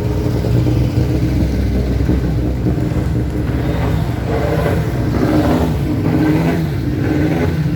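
Race car engine revving hard as the car accelerates past, its pitch rising and falling.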